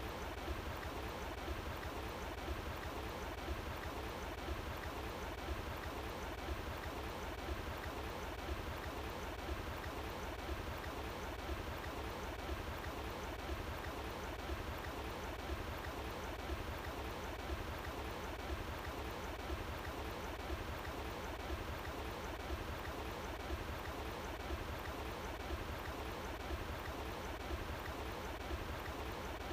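Running water flowing steadily, an even rushing with a low rumble underneath.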